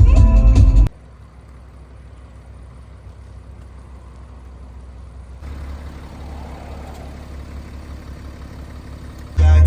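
Music cuts off about a second in, leaving the steady low rumble of a BMW X5 3.0d under way: the three-litre straight-six diesel engine and road noise. The rumble grows a little louder about halfway through, and music comes back in near the end.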